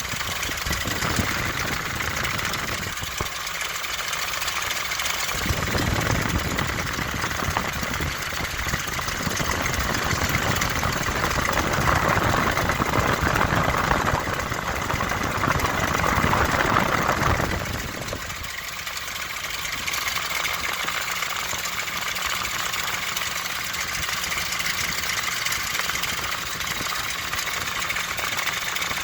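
2000 Ford Expedition's 4.6-litre V8 running at idle with the noise it has made for months. The owner thinks it comes from the belt side, perhaps the belt tensioner pulley, or else a flat rocker. The sound grows louder and brighter in the middle and drops back about eighteen seconds in.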